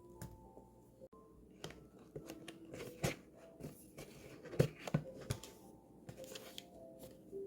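Scattered small clicks, taps and rustles of objects being handled, over faint soft tones.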